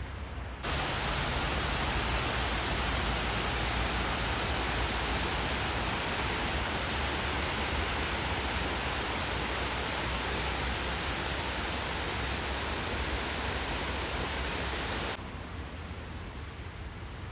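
Steady rushing noise of a man-made waterfall's falling water, close up, starting abruptly and cutting off sharply near the end.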